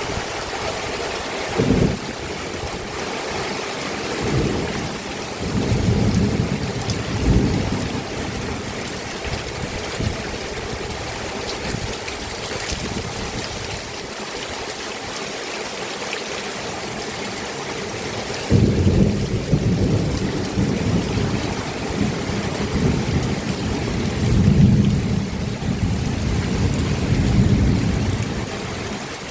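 Steady rain falling, an even hiss. Low rumbles swell under it now and then: a short one about two seconds in, several over the next few seconds, and a long one through most of the second half.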